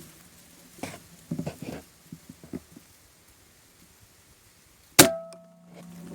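Air rifle fired once about five seconds in: a single sharp crack with a short metallic ring, after a few soft handling clicks and rustles. A steady low hum follows the shot.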